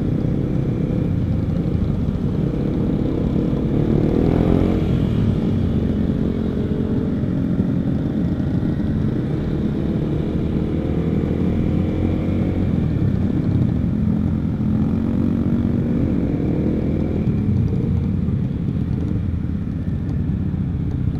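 Honda CBR150R's single-cylinder engine running through an R9 aftermarket exhaust while being ridden. Its pitch rises and falls several times as the bike accelerates, shifts and eases off, over a steady low rumble.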